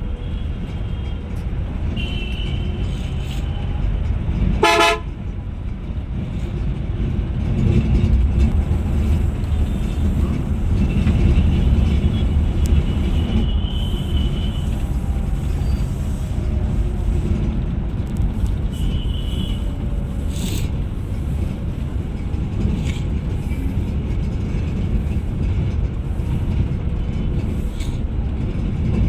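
Scania Metrolink bus driving on the road, a steady low rumble of engine and tyres that grows louder about eight seconds in. Horns toot several times in traffic, with one loud short horn blast about five seconds in.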